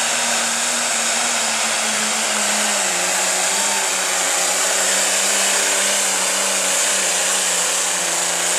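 Light pro stock pulling tractor's turbocharged diesel engine running at high revs over a strong hiss, its pitch sagging slightly about three seconds in.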